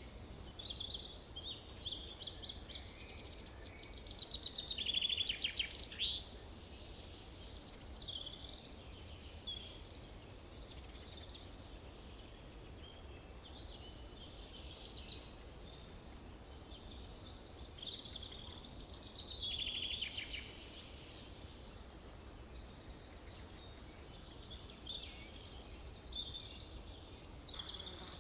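Forest birdsong: several birds calling and trilling in short high phrases, overlapping, with the busiest stretches about five seconds in and near twenty seconds, over a faint low rumble.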